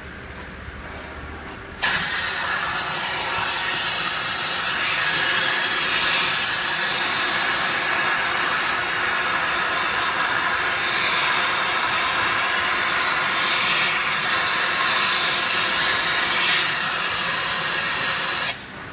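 Suction of a welding machine's dust recovery system, switched on and pulling dust through its hose: a loud, steady rush of air that starts abruptly about two seconds in and cuts off abruptly near the end.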